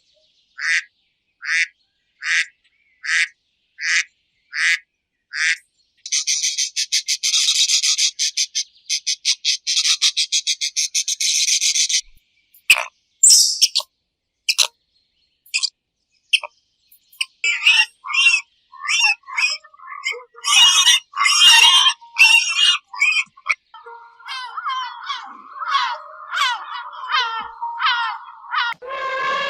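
A sequence of animal calls. First comes a run of evenly spaced high chirps, a bit more than one a second. Then a dense buzzing trill lasts about six seconds, followed by scattered clicks and a long stretch of varied chirping calls.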